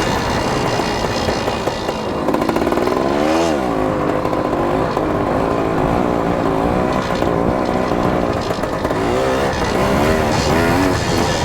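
Dirt bike engine running and revving, its pitch rising and falling as the throttle opens and closes, with one rev about two seconds in and several quicker revs near the end.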